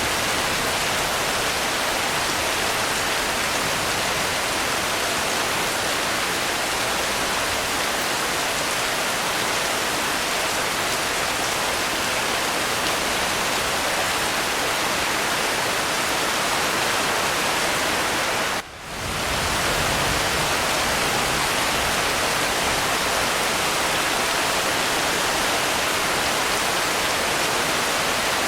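Steady, dense rain hiss, heavy and even, with no thunder. The sound drops out briefly about two-thirds of the way through, then resumes.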